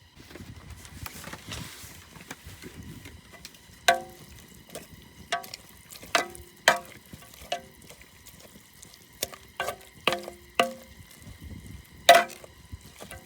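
A series of about a dozen irregular sharp knocks or clacks, each with a brief pitched ring, over a faint steady hiss. The loudest knock comes near the end.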